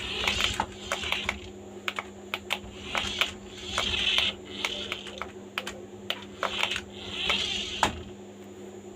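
Quick light clicks and short rustling bursts of a small plastic toy car and its packaging being handled, stopping near the end over a faint steady hum.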